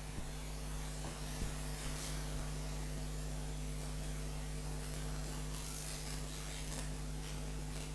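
Steady electrical mains hum over a faint hiss, with a few faint brief scratchy sounds.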